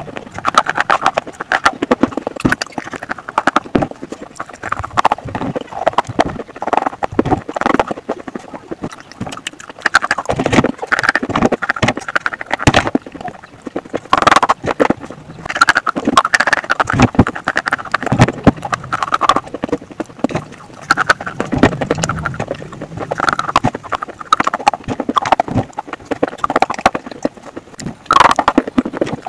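Slate pencils being bitten and chewed close to the microphone: a dense, uneven run of sharp crunches and clicks.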